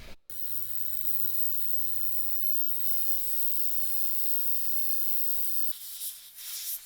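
A steady hiss with a low hum underneath, starting abruptly just after the beginning and breaking off about six seconds in.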